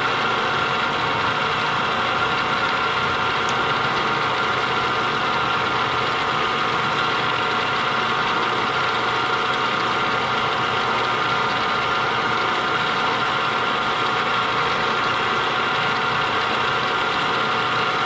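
Milling machine running with its cutter turning at about 450 RPM, taking a steady hand-fed cut to slit a metal part; an even machine hum with a cutting whine.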